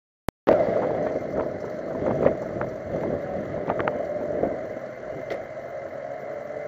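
A 2009 Honda Civic Si's 2.0-litre four-cylinder engine running, with road and wind noise. The sound starts abruptly about half a second in, just after a single click, and a few light clicks and knocks sit over the steady rumble.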